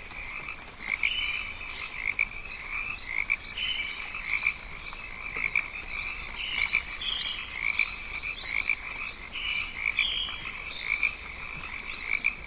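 Dense rainforest chorus of calling animals: a continuous pulsing trill with many short chirping calls layered over it.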